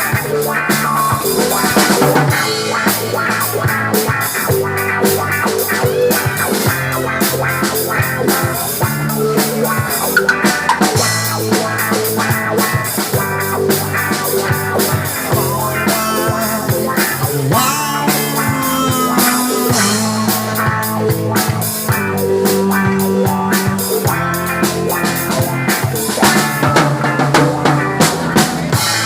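Live rock band playing an instrumental passage: drum kit keeping a steady beat with rimshots, with bass and guitar.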